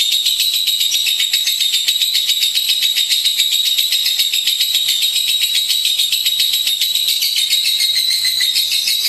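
Lovebird singing a long, unbroken, rapid high-pitched chattering trill.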